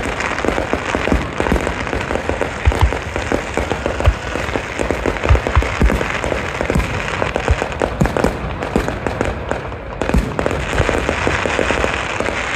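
Aerial fireworks display: a dense, continuous crackling from bursting shells and crackle effects, punctuated every second or so by deeper booms of shells going off.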